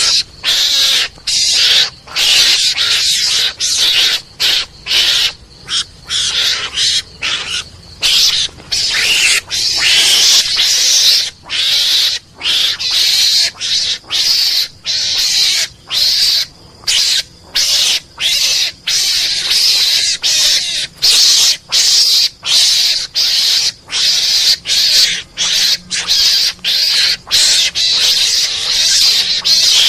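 Recorded Javan mongoose (garangan) calls played as a hunting lure: harsh, noisy chattering cries in short bursts, one or two a second, separated by brief gaps and repeating without a break.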